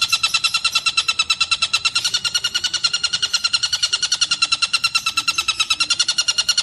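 Tengkek buto kingfisher calling in one unbroken, rapid trill of evenly repeated notes, about a dozen a second, holding an even pitch.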